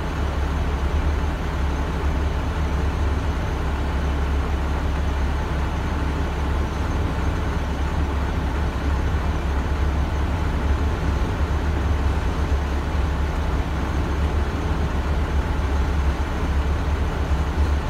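Freight train cars rolling steadily past a grade crossing, heard from inside the cab of a stopped heavy vehicle, over the constant low drone of that vehicle's idling engine.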